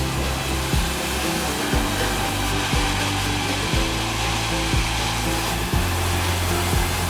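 Sawmill saw running through an acacia log with a steady whirring noise, under background music with a steady beat about once a second.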